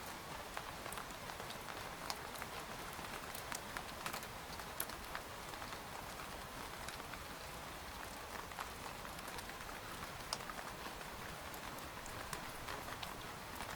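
Steady rain pattering on a tent's fabric, an even hiss with many scattered individual drop ticks.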